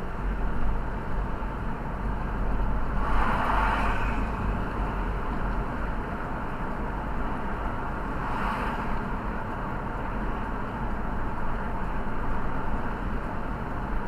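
Road and engine noise of a car being driven, a steady low rumble heard from inside, with two brief louder swells of noise about three and eight seconds in.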